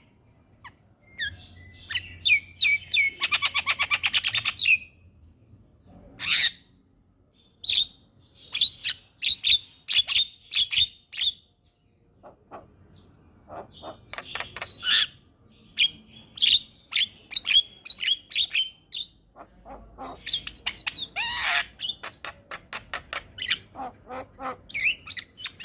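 Javan myna (jalak kebo) calling in runs of short, sharp chattering notes and whistles, with a buzzy rattling call about three seconds in.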